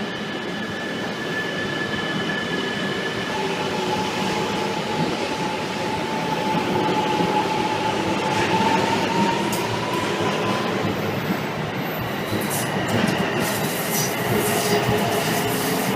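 Shinkansen train moving at the platform, with a steady rolling noise and a motor whine that rises slowly in pitch as it gathers speed, then sharp rail clicks near the end.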